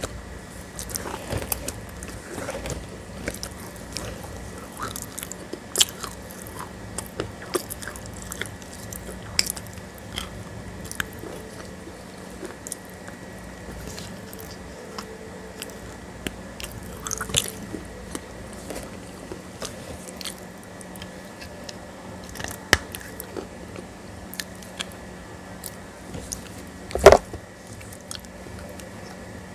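Close-miked mouth sounds of someone biting and chewing a wet grey paste and its firmer slab pieces: scattered sharp crunchy bites between squishy, wet chewing, with one loud crunch near the end.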